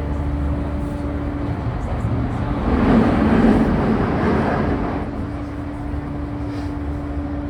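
Running sound inside a JR E235-1000 series motor car with a Mitsubishi full-SiC MOSFET VVVF drive, heard at speed: a steady hum over a low rumble. About three seconds in, a rush of noise swells and fades over roughly two seconds, masking the hum.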